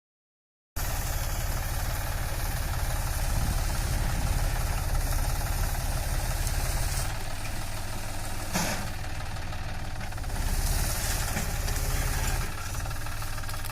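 Tractor diesel engine running with a rapid, even chugging beat, its level swelling and easing a few times. A single sharp clank about eight and a half seconds in. The sound cuts in abruptly under a second in.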